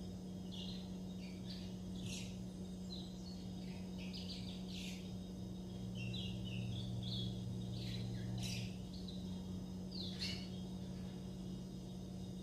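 Young curiós (chestnut-bellied seed finches) twittering in practice song: scattered short chirps and quick sweeping notes, over a steady low hum.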